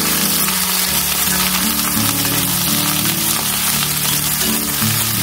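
Okra sizzling steadily as it fries in hot mustard oil in a steel kadai, stirred with a metal spatula, under background music with slow held notes.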